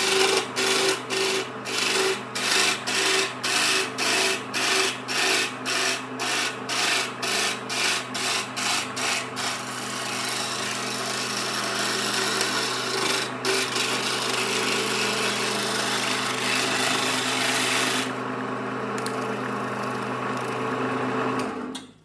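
Power sander working a wood surface: rhythmic back-and-forth scraping strokes, about two a second, for the first ten seconds, then a steady grind over the motor's hum, cutting off just before the end.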